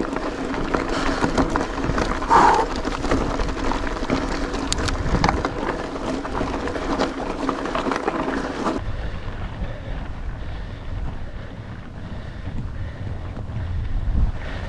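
Riding noise from a mountain bike, with tyre and drivetrain noise and wind buffeting the microphone. About two-thirds of the way through the higher rushing noise stops abruptly, leaving a low wind rumble.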